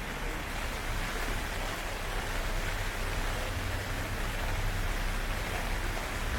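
Heavy typhoon rain falling steadily, a dense even hiss with a low rumble underneath.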